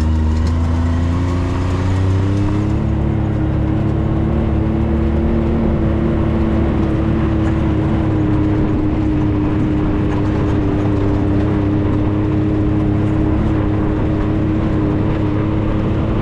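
A 4x4's engine pulling up a mountain road. Its pitch rises over the first three seconds as it speeds up, then holds steady at a cruise, under a constant wash of driving noise.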